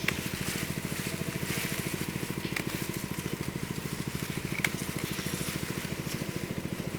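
A small engine running steadily with a fast even pulse, with a few sharp clicks or cracks on top, the loudest about four and a half seconds in.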